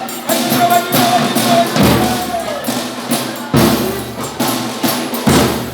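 Folia de Reis folk band playing: percussion with a heavy drum beat about every second and three-quarters, many lighter strokes between them, and a held melodic note over the first second and a half.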